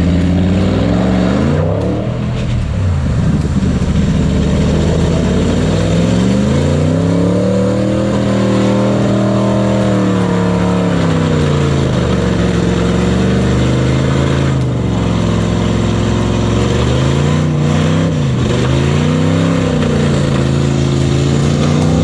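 V8 mud truck engine revving up and down under load, its pitch rising and falling several times, with one long climb and drop in the middle.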